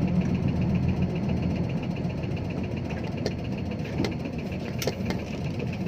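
Six-wheel dump truck's diesel engine running steadily at low revs, with a fine even ticking over the drone and a few sharp clicks.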